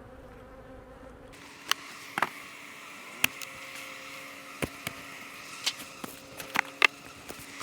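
Honey bees buzzing in a steady hum around an opened hive. Several sharp clicks and knocks, the loudest sounds, come at irregular moments through it.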